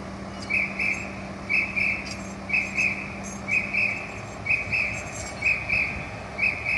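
Electronic warning beeper on a fire truck, sounding paired high beeps about once a second in a very even rhythm, over a steady low engine hum.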